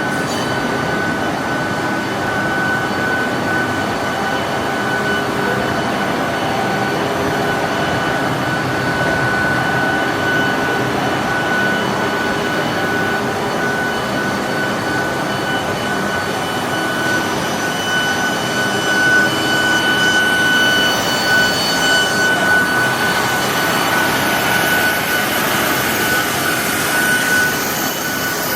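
Machine-shop lathe running steadily with a constant high whine over a dense mechanical noise. A hiss grows louder in the last few seconds.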